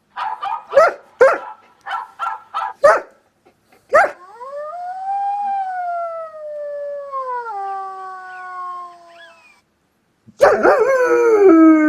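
A dog yelps several times in quick succession, then howls once at length, the howl rising and then sliding down in pitch. A second howl starts near the end.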